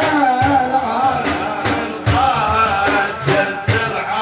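A man singing an Iraqi devotional praise chant (madih) for the Prophet in a long, wavering, ornamented line, over repeated drum beats.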